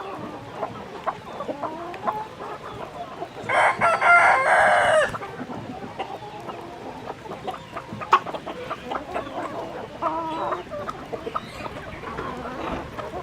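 Chickens clucking, with a rooster crowing once, loudly, for about a second and a half about three and a half seconds in.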